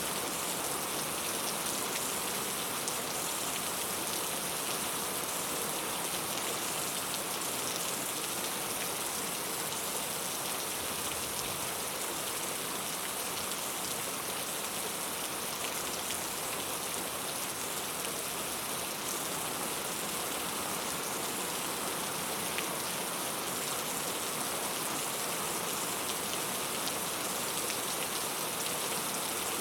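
Steady rain falling: an even hiss of rainfall with individual drops ticking through it.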